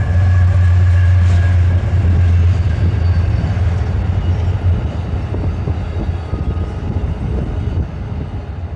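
Amtrak passenger train passing at speed, loudest at the start with a deep low rumble, then fading gradually as it moves off.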